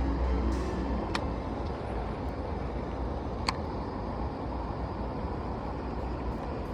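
Strong gusting wind buffeting the microphone as a steady low rumble, with two sharp clicks, about a second in and again about three and a half seconds in.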